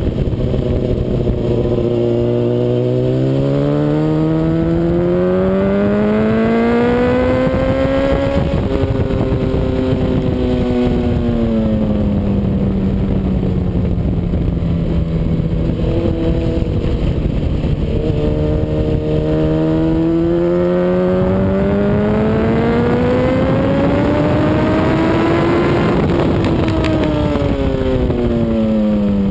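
Sport motorcycle's inline-four engine at speed on a race track, its pitch climbing steadily for about five seconds, easing back, holding, then climbing again and dropping near the end, with a steady rush of wind noise underneath.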